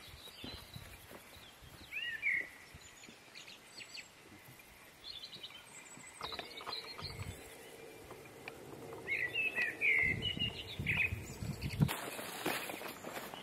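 Small birds chirping in short runs of calls, about two seconds in and again from about nine to eleven seconds, over a steady outdoor hiss.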